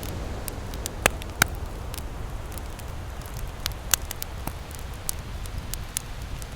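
Wood campfire crackling with scattered sharp pops, the loudest about a second in, again just after, and near four seconds, over a steady low rumble of ocean surf.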